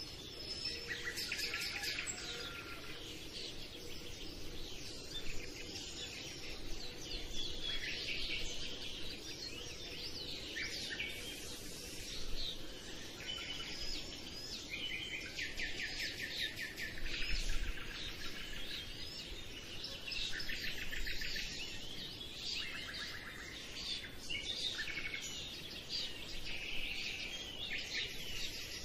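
Many small birds chirping and trilling continuously over steady background noise.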